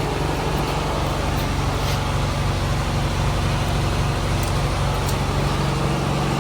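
Steady low mechanical hum from running machinery, holding an even drone throughout.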